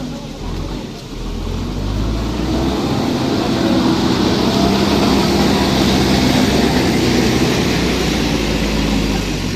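Heavy machinery's engine running, growing louder about two to three seconds in and holding steady, then easing off a little near the end.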